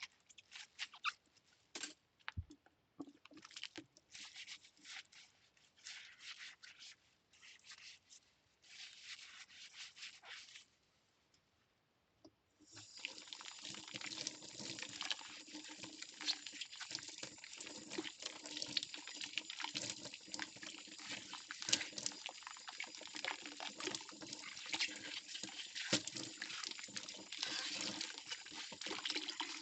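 Hand-washing cutlery at a kitchen sink: short bursts of scrubbing and small clinks at first, then a brief pause. About halfway through, the faucet is turned on and runs steadily, with utensils clinking under the stream.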